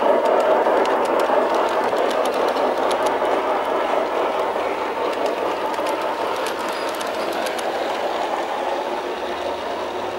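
Large-scale garden railway model train running along the track, with faint clicks of wheels over rail joints, gradually getting quieter.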